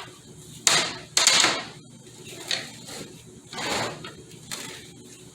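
Irregular knocks, clatters and scrapes of metal transmission parts and hand tools being handled, about five in all, the loudest two in the first second and a half.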